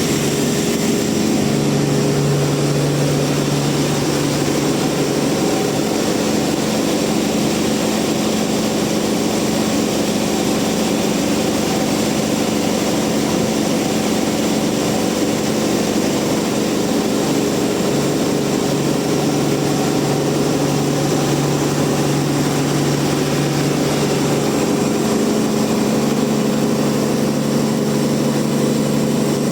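Band sawmill running with a steady, loud machine drone.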